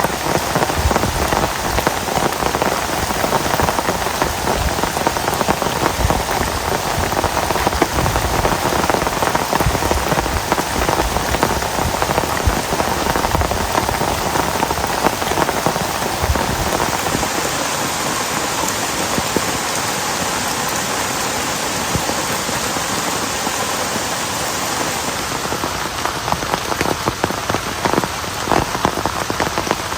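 Heavy rain falling steadily, thick with the hits of individual drops. For several seconds in the middle the low drop impacts thin out into a smoother hiss, then the separate hits come back near the end.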